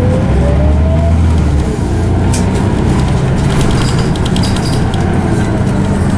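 Scania OmniCity bus under way, heard from inside: its diesel engine drones low while the ZF automatic gearbox whines, the whine rising in pitch as the bus accelerates and fading about a second in. A few short rattles follow.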